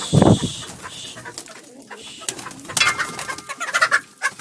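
Domestic pigeons cooing and free-range hens clucking, with a louder low sound just after the start and a higher hen call about three seconds in, over scattered small clicks.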